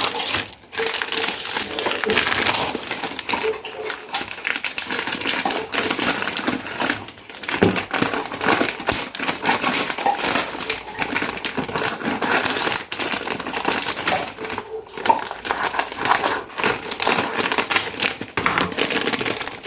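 Plastic packaging of pastel dough crinkling and rustling as it is handled: continuous irregular crackling, with a few brief pauses.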